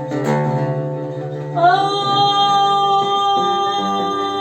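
A woman singing a Yemeni Taizzi folk song, holding one long, level note from about a second and a half in, over a steady lower tone.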